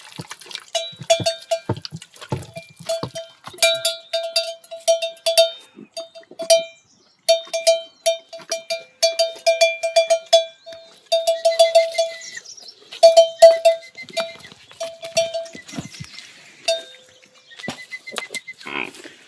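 A metal neck bell on a farm animal clanking irregularly: quick clusters of ringing strikes with short pauses between them.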